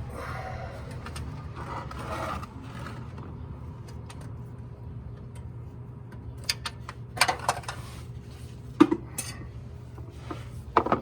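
Oil filter removal under a car: scraping of the filter wrench and catch pan for the first few seconds, then a handful of sharp metal clicks and knocks as the filter is worked loose.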